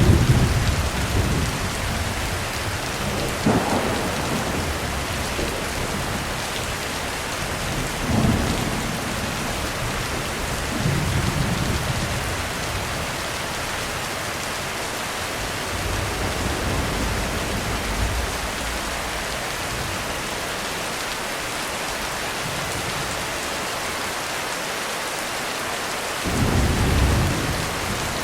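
Heavy steady rain with repeated low rolls of thunder rumbling in and fading, the strongest right at the start and again near the end.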